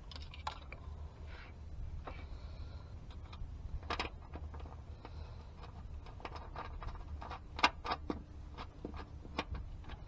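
Scattered light clicks, taps and knocks of parts and wiring being handled, with one sharper click about three-quarters of the way through, over a steady low rumble of wind on the microphone.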